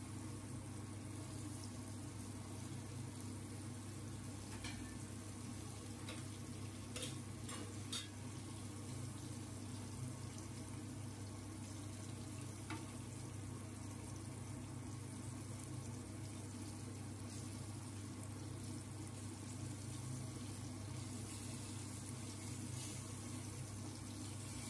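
Chicken nuggets and fish pieces sizzling steadily as they fry in hot oil in a pan, over a low steady hum. A few light metal clinks as a slotted spoon and spatula turn the pieces in the pan.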